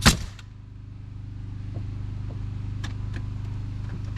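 One sharp, loud shot of a nail gun driving a nail into wooden siding right at the start, over the steady low hum of a running engine. A couple of faint clicks follow near the end.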